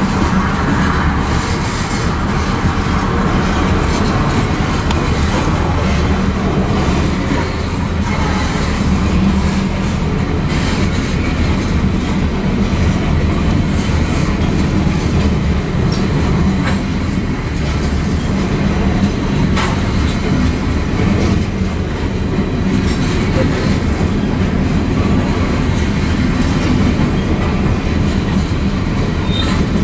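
Covered hopper cars of a freight grain train rolling past, their wheels clacking over the rail joints in a steady rumble.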